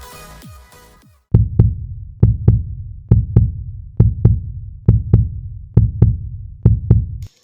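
Heartbeat sound effect: deep double thumps, about one pair a second, starting after electronic music fades out and stopping abruptly near the end.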